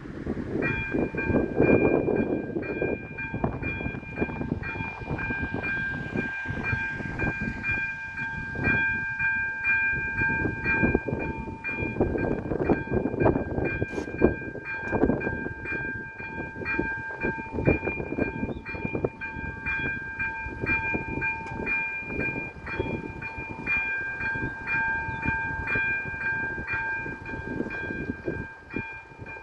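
Level crossing warning bells, AŽD ZV-02 electronic bells, start ringing about half a second in and keep up a fast, even ding at several pitches, the signal that the crossing is closing for an approaching train. A low rumble runs underneath.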